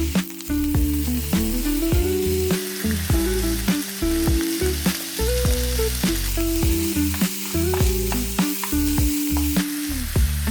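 Small pieces of chicken sizzling as they are stir-fried in a hot pan, with the clicks and scrapes of stirring, over background music with a melody and bass line.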